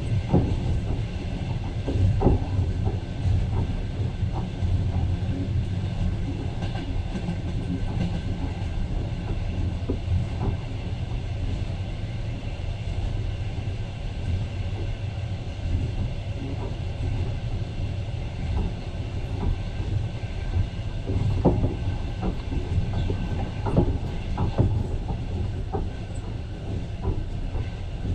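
Passenger train running, heard from inside the carriage: a steady low rumble with irregular clicks and knocks from the wheels on the track.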